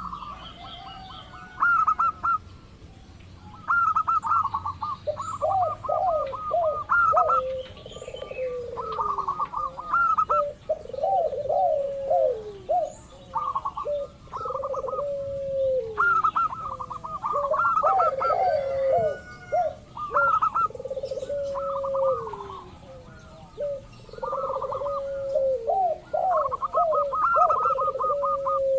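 Zebra doves cooing. Phrases of quick, clipped notes are repeated over and over, some higher and some lower, the lower ones often ending in a falling slur, with short pauses between phrases.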